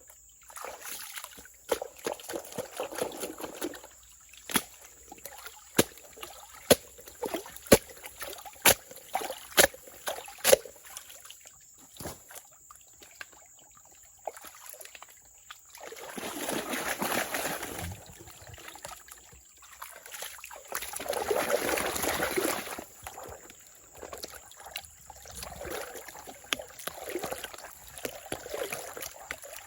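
Water sloshing and trickling, with a run of sharp clicks or knocks in the first half and two longer rushing splashes later on.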